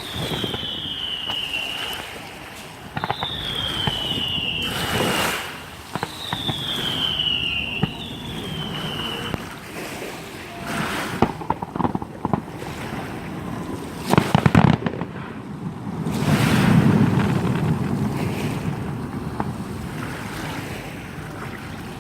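Fireworks display: four whistling shells, each a falling whistle of about two seconds, in the first half. Sharp bangs and crackle follow, the loudest about two-thirds through, then a deep rumbling boom.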